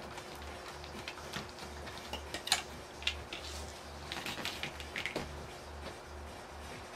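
Small metal parts and hand tools clicking and tapping irregularly as a sumo robot is taken apart by hand, with a low pulse about twice a second underneath.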